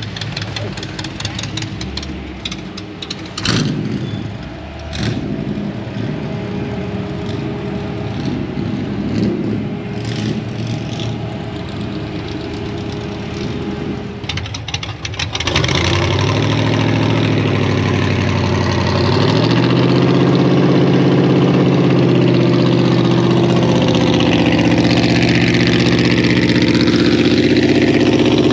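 Truck engines running at a show. About halfway through, a nearer engine comes in louder and runs steadily, its pitch stepping up once a few seconds later.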